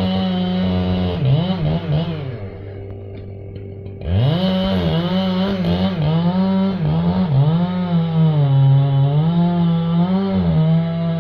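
Two-stroke chainsaw running at high revs, its pitch dipping and recovering again and again as it cuts wood. About two seconds in it drops back to a quieter idle, then revs sharply up again at about four seconds.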